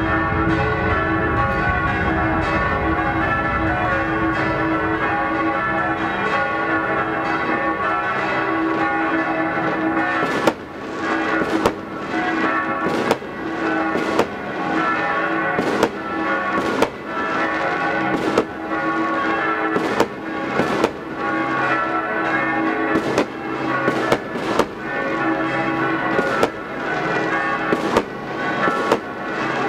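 Several church bells pealing together, mixed with New Year's fireworks. From about ten seconds in, sharp strikes come roughly once a second.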